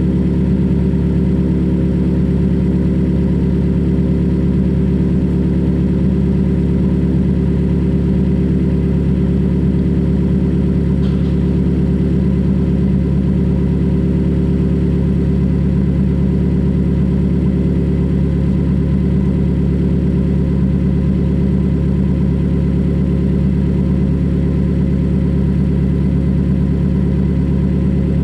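Straight-piped exhaust of a 2020 Toyota Corolla LE's four-cylinder engine idling steadily while it warms up after a cold start, held back from revving until warm.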